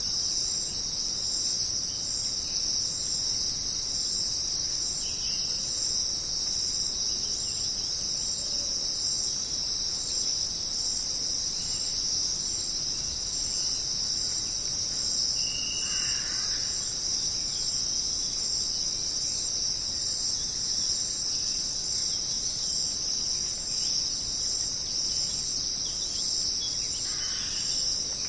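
Dense insect chorus in a jungle: a steady, unbroken high-pitched drone. A few brief faint bird calls come through, one about halfway through and another near the end.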